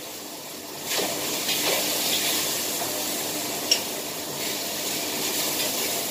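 Beef pieces sizzling in oil in a hot wok, a steady hiss that swells about a second in, with one sharp clink of a utensil against metal about halfway through.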